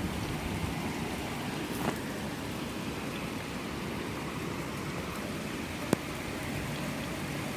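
Steady heavy rain falling, with two brief sharp clicks, one about two seconds in and one near six seconds.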